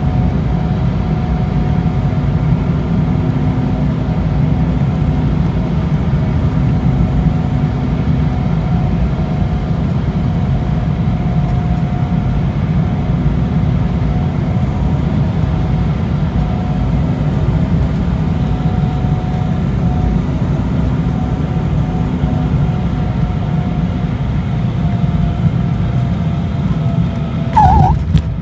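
Steady cabin noise of an Embraer E190 airliner in flight: a low rumble of its twin CF34 turbofan engines and airflow, with a faint hum that swells and fades. A sudden louder burst comes about a second before the end.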